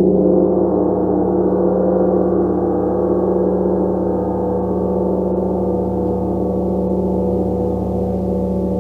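Gong resonating: a sustained wash of many overlapping tones that slowly dies away.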